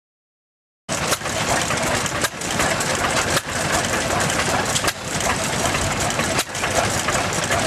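1940s Imperial Horwood Bagshaw hay baler running under engine power: a loud, dense mechanical clatter with a beat that recurs every one to one and a half seconds as the machine cycles. It cuts in abruptly about a second in.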